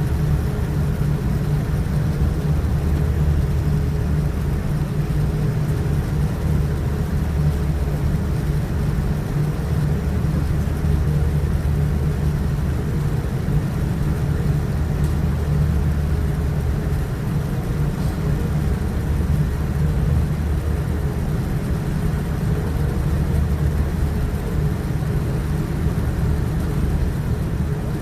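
Steady low rumble of a Boeing 787-9's Rolls-Royce Trent 1000 engines and airflow heard from inside the cabin, with no marked rise or fall in pitch.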